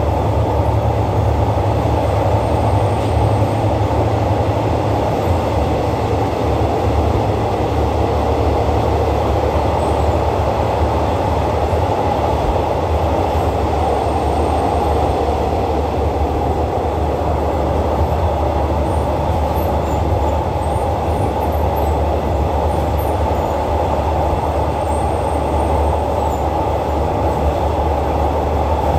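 Rapid train 139's passenger carriage running on an elevated track: a loud, steady rumble of wheels on the rails, heard from beside a carriage window.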